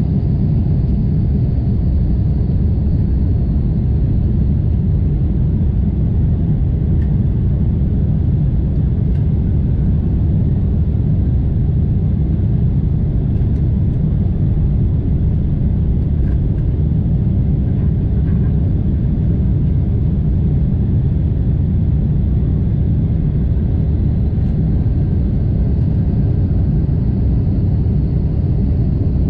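Steady low rumble of a Boeing 747-8's engines and airflow heard inside the passenger cabin, even and unbroken throughout.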